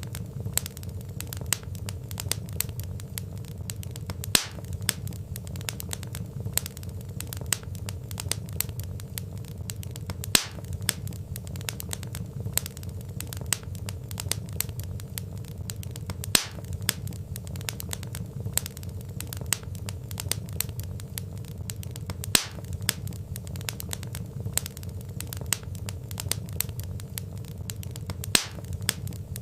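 Log fire crackling: dense small crackles and snaps over a low steady rumble, with a louder pop about every six seconds.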